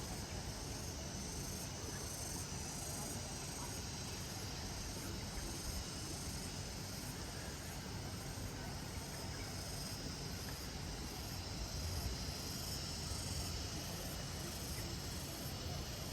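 Steady outdoor garden ambience dominated by insects chirring in a constant high-pitched drone, over a faint low rumble.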